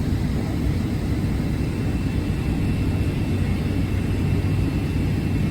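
Steady low rumble of a jet airliner heard from inside the passenger cabin, engine and airflow noise with a faint steady high whine over it.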